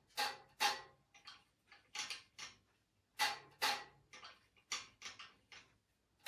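A series of about a dozen sharp metallic clicks and taps, often in pairs, each ringing briefly, from hand work on the band saw's freshly tensioned blade and adjustments.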